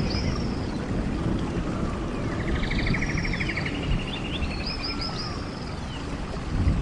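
Rainforest ambience: birds calling over a steady low rumble. A rapid trill comes about halfway through, and clusters of short, high, falling whistles come near the start, in the second half and again at the end.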